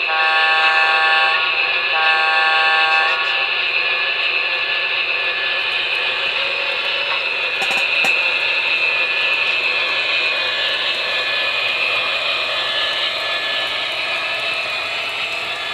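Model Union Pacific gas-turbine locomotive's onboard sound system: two horn blasts, each a little over a second long, then a steady high turbine whine.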